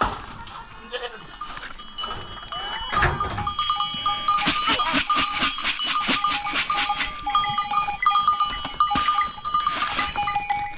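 Goats and sheep bleating, with the animals' bells jingling over and over from about two seconds in.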